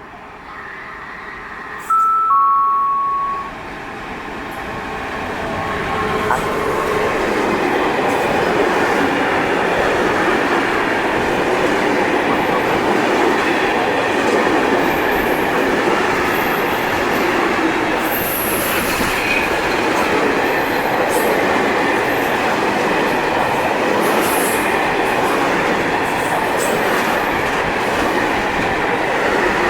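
Train horn sounding two notes, a higher then a lower one. Then a train passes through the station without stopping, its running noise building over a few seconds and staying loud and steady.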